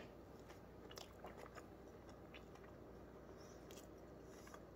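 Faint chewing of a rotisserie chicken wrap with cabbage and carrots, with a few soft crunches scattered through.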